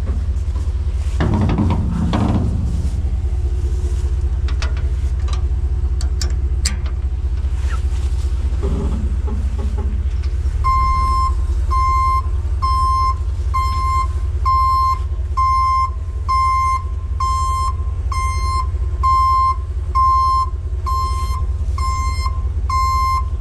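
A vehicle engine runs with a steady low rumble. About ten seconds in, a reversing alarm starts, one high beep after another at about five beeps every four seconds, as the vehicle backs into position.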